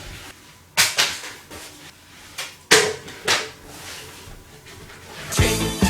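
Three sharp knocks with short ringing tails, about a second in and twice near three seconds, then background music with a beat comes in just before the end.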